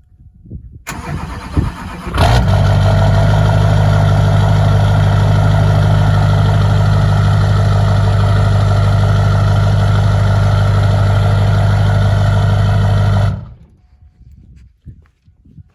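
Duramax diesel engine cold-starting: it cranks briefly, catches and settles into a steady, loud idle, then cuts off suddenly.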